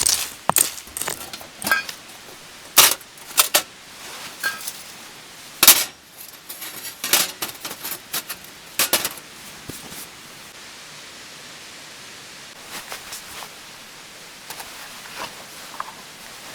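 Hard items, seemingly metal gear, clinking and knocking together as they are handled: a quick run of sharp clinks and clatters, some with a brief ring. The clinks stop about ten seconds in, leaving a faint hiss with a few soft taps.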